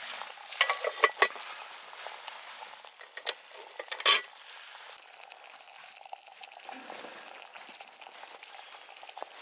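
Metal cookware clinking and knocking a few times in the first second or so as a pot is set in place, then a faint steady hiss of something simmering over the heat.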